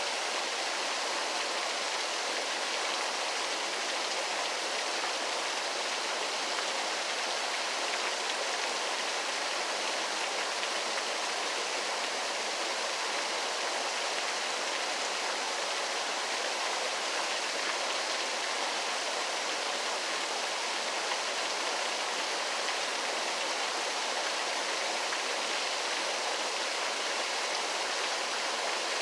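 Waterfall: water rushing in a steady, unchanging hiss with little deep rumble.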